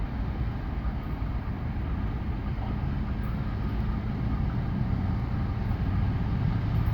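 Long CSX freight train rolling past, with a steady rumble and rattle from its wheels on the rails.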